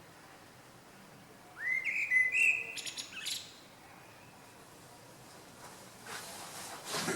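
A small bird calls once, about one and a half seconds in: a rising whistle followed by higher chirping notes, lasting about two seconds. A short noisy rustle comes near the end.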